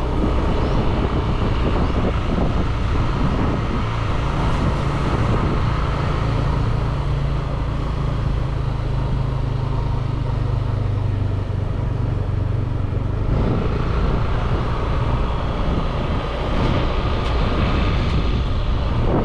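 Motorbike engine running under way, with wind rumbling on the microphone; the engine note eases off about two-thirds of the way through.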